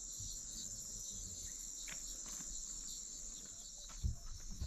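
Steady, high-pitched chorus of insects shrilling without a break, with a faint knock about four seconds in.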